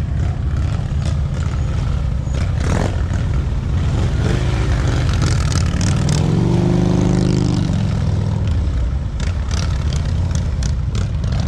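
Motorcycle engine running at low, slow-riding speed. It swells in pitch and level about six seconds in, then settles back about two seconds later.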